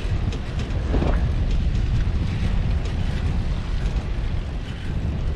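Wind buffeting a GoPro's microphone during a bicycle ride, a steady low rumble.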